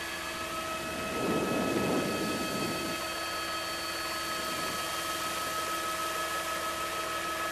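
Helicopter noise heard from inside the cabin: a steady hiss with several steady whining tones, and a louder muffled rush of noise from about one to three seconds in.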